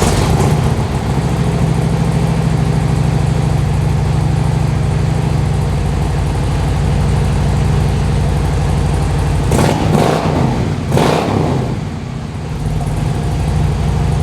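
Fuel-injected Harley-Davidson V-twin motorcycle engine idling steadily, just started from cold, with two brief throttle blips about ten and eleven seconds in.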